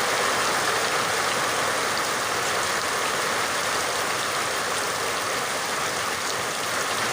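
Steady rainfall: a continuous even hiss of falling rain with faint scattered drop ticks.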